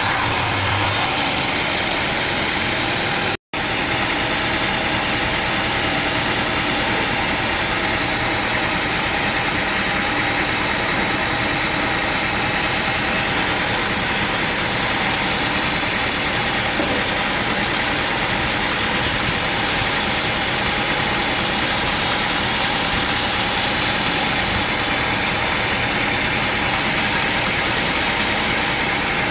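Sawmill machinery running steadily, an engine-like drone under a wide haze of noise. The sound drops out for an instant about three and a half seconds in.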